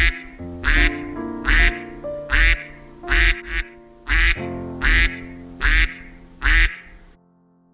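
A duck quacking in a steady run of calls, a little more than one a second, about nine in all, stopping about seven seconds in. Background music plays underneath.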